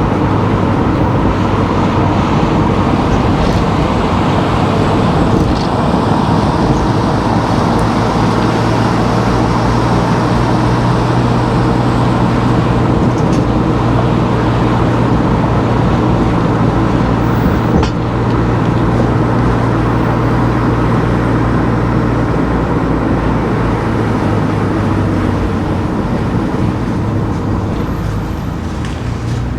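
A car driving along town streets: steady engine hum and tyre and road noise, with one sharp click about 18 seconds in.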